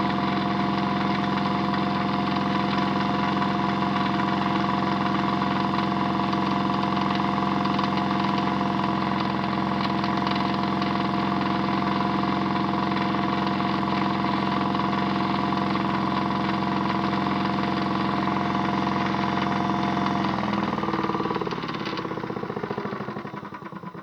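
Small electric motor of a modified Miele W1 toy washing machine running with a steady hum. About 20 seconds in it slows, its pitch falling, and it winds down to a stop near the end.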